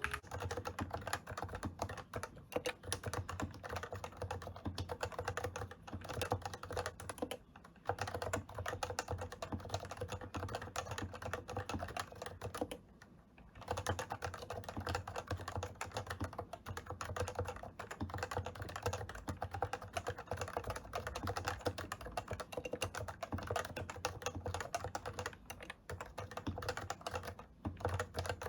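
Fast, continuous typing on a custom enthusiast keyboard, a dense run of keystrokes with short pauses about 8 and 13 seconds in.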